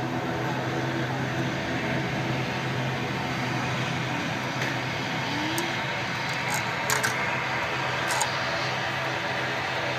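Aircraft engines running with a steady hum, with a few short clicks in the last few seconds.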